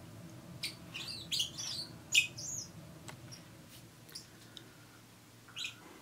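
Soft, short chirps from small pet birds: a quick run of them in the first couple of seconds, then one more near the end.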